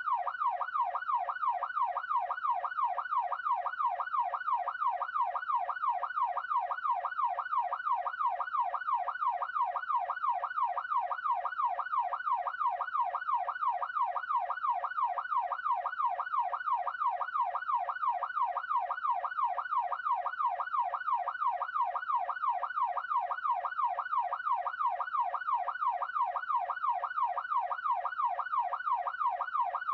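Electronic police siren on a fast yelp, its pitch sweeping up and down about twice a second, steady and unbroken.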